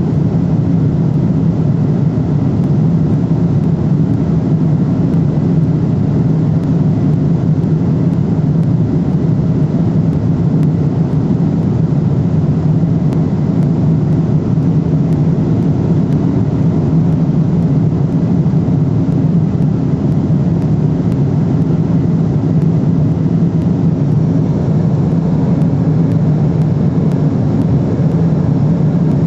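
Steady cabin drone of a Boeing 777-300ER in flight, heard from inside the passenger cabin: the low hum of its GE90 jet engines blended with the rush of air along the fuselage, unchanging throughout.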